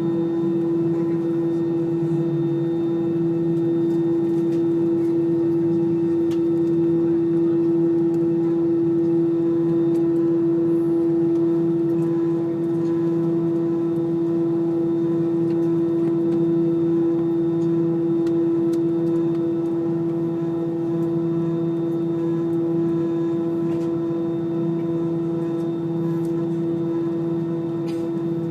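Rolls-Royce jet engines heard from inside an Airbus cabin in flight: a steady drone with one strong humming tone and several fainter, higher whining tones that hold unchanged throughout.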